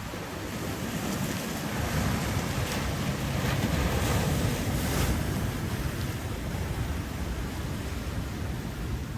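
Ocean surf washing in, swelling louder for a few seconds around the middle and then easing back, with wind rumbling on the microphone.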